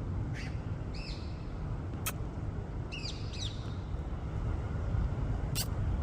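A bird calling in short pitched calls: two near the start and a quick cluster of two or three about three seconds in. Two sharp clicks fall between the calls, over a steady low rumble.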